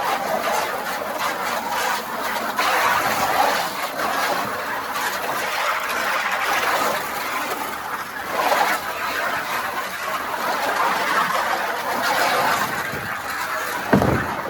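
Poultry clucking and chattering, with a single thump near the end.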